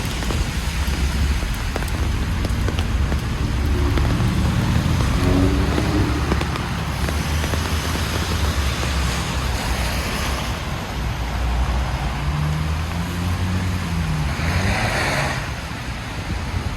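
Road traffic on a rain-wet city street: the low hum of passing engines under a steady hiss of tyres and rain, with a brief louder hiss near the end as a vehicle goes by close.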